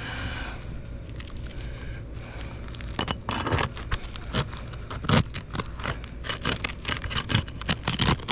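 Roof shingles being pried up from underneath: irregular sharp scraping and clicking as the shingle tears loose. It starts about three seconds in and is loudest around the middle and near the end.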